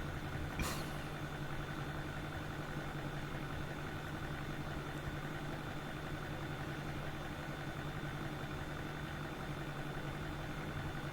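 Steady machine hum with a faint constant high whine, holding one level throughout, with a single short tick about half a second in.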